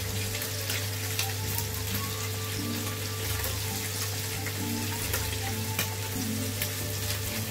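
Strips of beef frying in oil in a pan: a steady sizzle with scattered small pops and spits, over a steady low hum.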